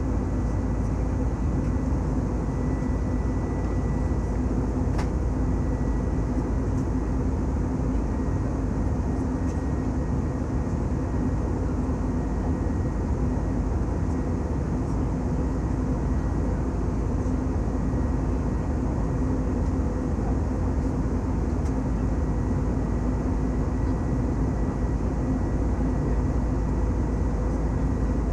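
Jet airliner engines running at steady high power: a continuous rumble with a few steady hums over it, neither rising nor falling.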